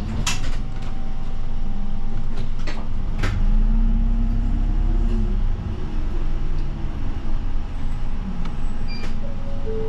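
Bus engine running inside the cabin, its pitch rising and then falling a few seconds in as the bus speeds up and shifts, with a steady low rumble and a few sharp rattles and knocks from the cabin.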